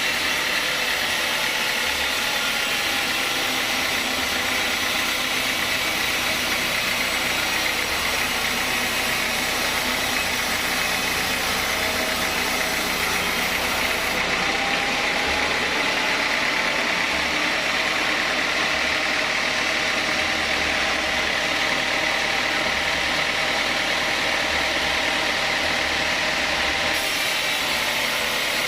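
Sawmill saw machine running steadily, a continuous even mechanical drone with no breaks.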